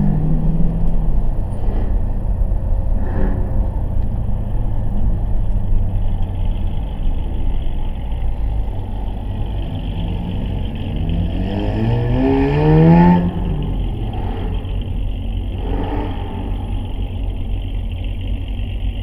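Dodge Challenger Scat Pack's 392 Hemi V8 heard from inside the cabin, running with a steady low drone on track. About two-thirds of the way through it revs up, rising in pitch for a couple of seconds, then drops back suddenly as the throttle is lifted.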